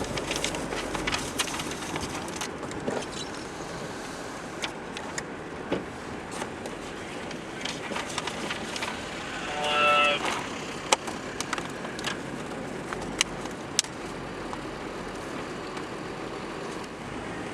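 Car driving slowly: a steady engine-and-tyre rumble with many scattered sharp clicks and knocks, and one short pitched tone lasting under a second about ten seconds in.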